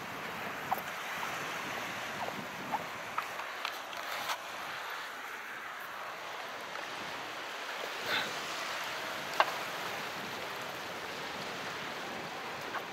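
Calm sea: a steady wash of small waves, with scattered short clicks of water.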